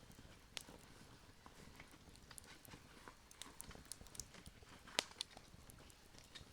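Campfire crackling faintly with irregular sharp pops and snaps, the loudest pop about five seconds in.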